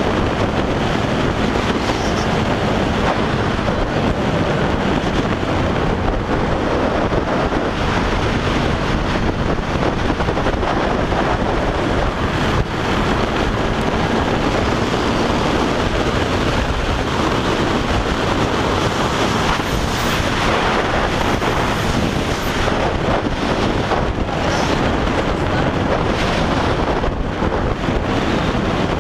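Wind rushing over the microphone of a GoPro on a moving motorcycle, with the KTM 390 Duke's single-cylinder engine running underneath at a steady pace.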